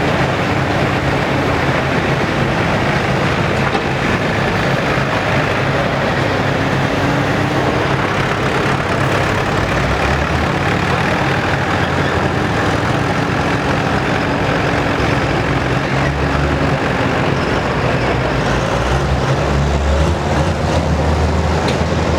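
Diesel pickup truck engine running hard under load while dragging a pulling sled, a loud, continuous sound whose pitch slowly wavers up and down.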